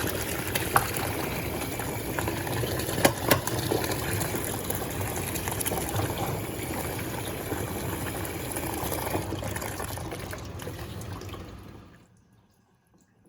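Water running into the tub of an Electrolux Turbo Compacta washing machine as it fills, a steady gushing with a couple of brief knocks; the flow dies away and stops shortly before the end.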